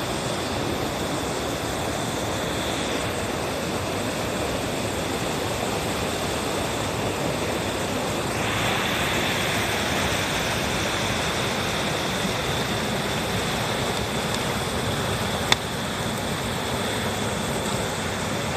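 Wood campfire burning with a steady rushing noise and one sharp pop about fifteen seconds in.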